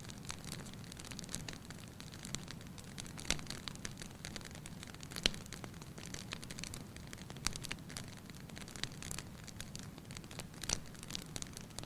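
Wood fire crackling in a fireplace: irregular sharp pops and snaps over a low steady rumble of the flames, with the loudest pops about three and five seconds in.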